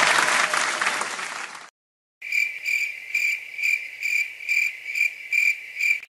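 Applause fading out, then, after a brief silence, the stock cricket-chirping sound effect: a steady high chirp repeating about twice a second, the familiar cue for an awkward silence.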